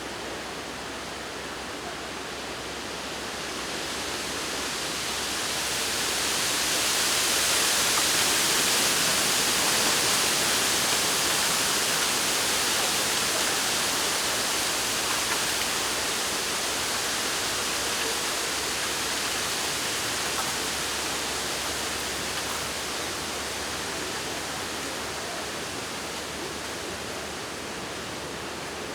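Wind blowing through a bamboo forest, the leaves rustling in a steady hiss that swells into a stronger gust a few seconds in and then slowly dies back.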